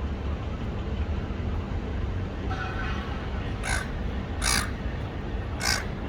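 A parrot calling harshly: a fainter drawn-out call about halfway in, then three short loud screeches about a second apart, over a steady low rumble.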